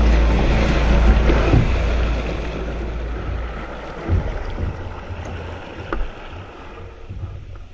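Wind buffeting the microphone and water noise on a small fishing boat, a heavy low rumble that fades gradually, with two dull knocks about four and six seconds in.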